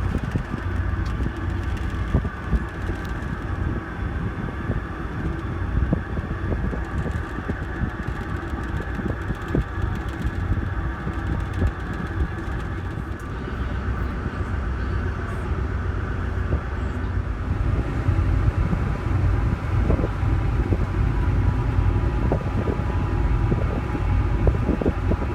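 Steady low rumble and drone of a car ferry's engines while the vessel is underway, with a few light knocks, growing slightly louder about two-thirds of the way through.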